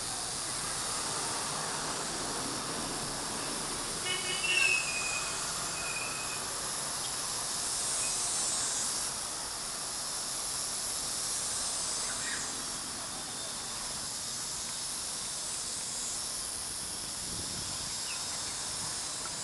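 Cicadas buzzing in a steady, high, shrill chorus that swells and eases around the middle. About four seconds in, a brief pitched call sounds over it and is the loudest thing heard.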